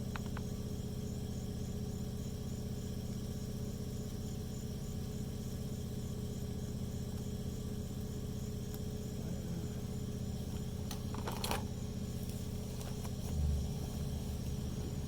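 A steady low mechanical hum, with a brief clatter of clicks about eleven seconds in and a soft knock shortly after.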